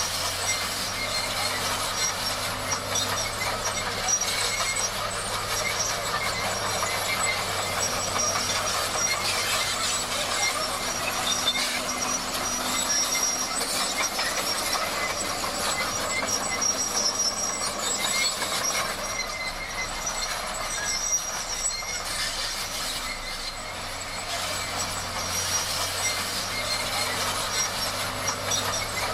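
Bulldozer working: a steady engine hum under continuous metallic clatter and high squealing from the machine.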